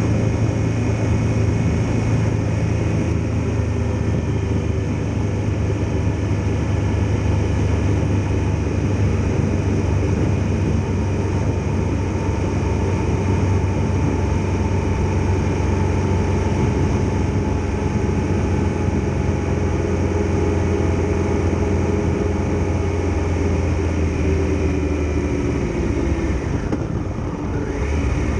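Triumph Tiger Explorer XRx motorcycle's three-cylinder engine running steadily under way, with a deep, even hum. Near the end the note dips briefly and picks up again.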